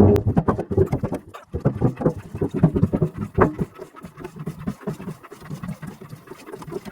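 Hand-operated mechanical drum pump being worked, a quick, uneven run of pumping strokes as hydraulic oil is drawn from the drum.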